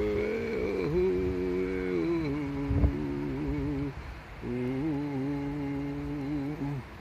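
A person's voice chanting in long held, wavering notes, breaking off briefly about four seconds in, with a short thump near three seconds.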